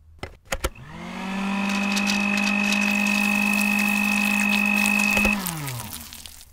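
Countertop blender: a few clicks as its speed knob is turned, then the motor spins up with a rising whine, runs steadily with a high tone for about four seconds, and winds down after being switched off near the end.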